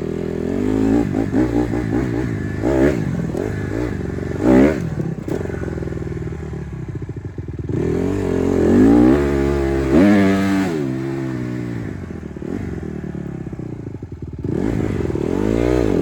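Dirt bike engine running and revving, its pitch rising and falling again and again, with quick blips in the first few seconds and longer, louder revs around the middle and near the end.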